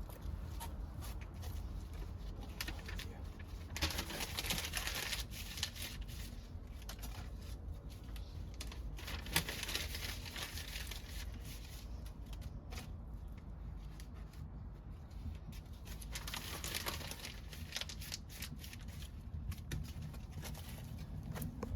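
Wood fire crackling and popping, with scattered sharp snaps and a louder rush of hiss about four, nine and sixteen seconds in.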